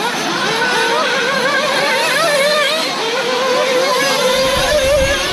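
Several nitro-engined RC off-road cars racing, their small engines revving up and down in a high-pitched whine that keeps rising and falling as the cars accelerate and brake. A low rumble joins near the end.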